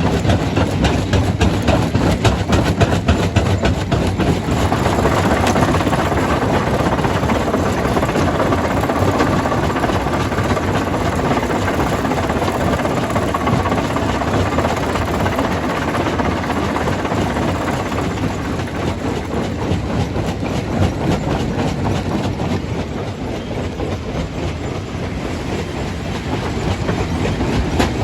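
Jaw crusher running under load: rock clattering and grinding between the jaws over a steady machine rumble. It eases off a little in the last few seconds.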